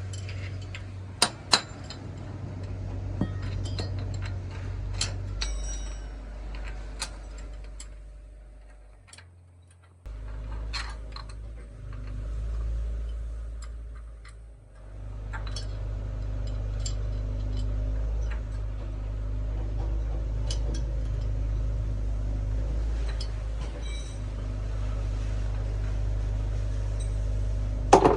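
Scattered sharp metallic clinks and taps over a steady low hum, consistent with work on a bus tyre. The hum drops out for a moment about ten seconds in, then resumes.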